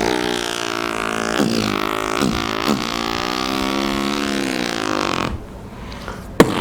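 A man imitating a motorcycle engine with his voice: a buzzing, engine-like drone for about five seconds, with a few quick dips and rises in pitch like revs and gear changes. A sharp click comes near the end.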